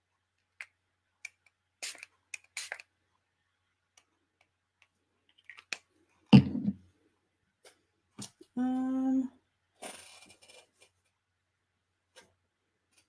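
Scattered clicks and taps of handling paper and craft supplies, with a heavy thump about six seconds in and a short hummed note. About ten seconds in comes a brief hiss: a pump spray bottle of green color spray misting the paper.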